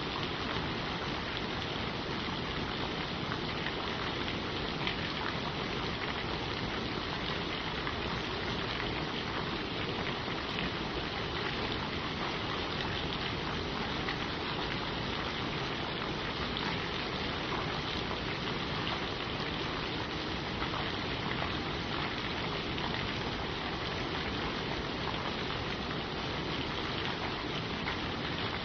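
Steady rain falling on leaves, a dense even hiss with fine pattering of individual drops.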